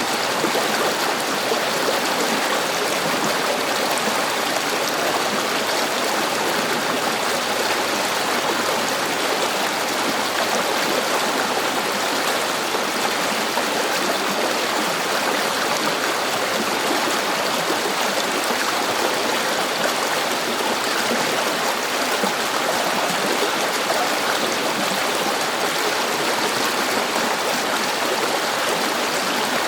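A river flowing steadily over rocks, an even rushing and babbling of water.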